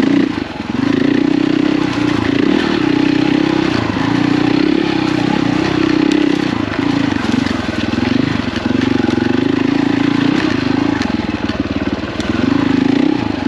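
KTM 450 EXC's single-cylinder four-stroke engine under riding load, the throttle opening and closing so the engine note rises and falls. It drops off briefly about half a second in and again near the end.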